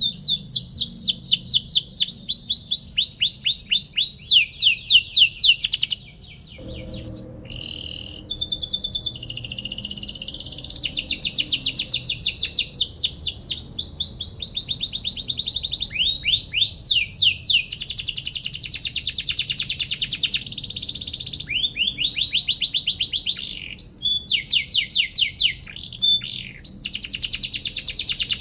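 Domestic canary singing a long song of fast trills, rapid repeated chirping notes in runs that change speed and pitch. There is a short break about six seconds in.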